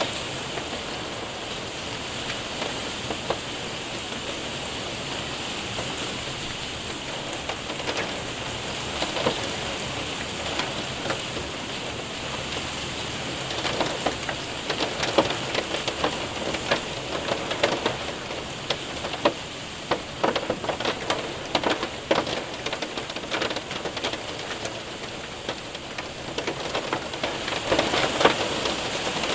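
Rain and hail pelting a window and roof: a steady hiss of rain with many sharp ticks of hailstones striking, growing denser about halfway through.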